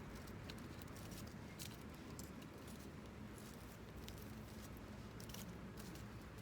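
Small wood fire crackling, faint irregular snaps over a low steady background rumble.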